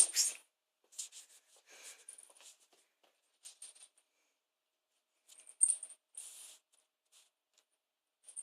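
Da Bird feather wand toy whirring in short fluttering bursts, with faint scattered rustles and scratches between them. The loudest burst comes a little past the middle.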